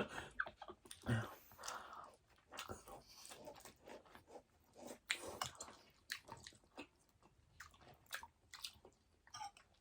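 Close-up chewing and biting of a tokneneng, a batter-coated, deep-fried boiled egg: irregular soft crunches and wet mouth clicks.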